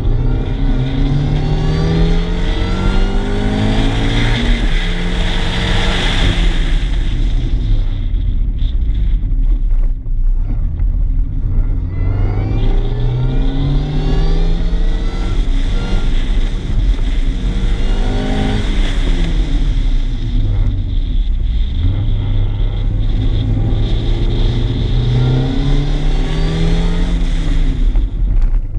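MINI Cooper S's supercharged four-cylinder engine accelerating hard. The revs climb and drop back at each gear change, ease off for a few seconds after the first spell, then build again twice.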